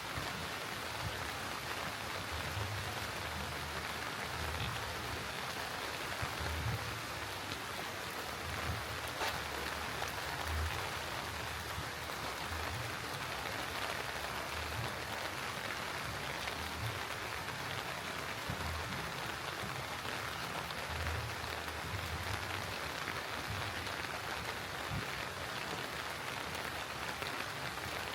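Steady rain falling on surfaces, an even hiss of raindrops, with soft low thuds of footsteps coming and going underneath.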